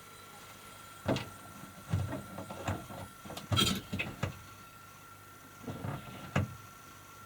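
Scattered knocks and clunks, about eight in all and uneven in spacing, over a faint steady high tone, as things are handled and moved.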